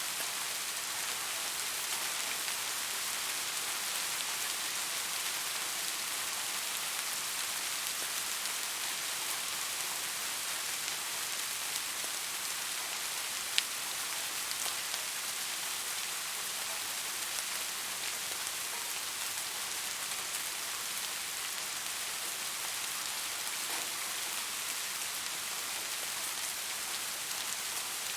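Steady rain falling, an even hiss of many drops, with one sharp drop or tick standing out about halfway through.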